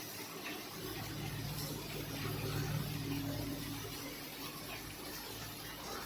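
Heavy monsoon rain falling with an even hiss, while a vehicle engine hums underneath, swelling from about a second in and easing off near the end.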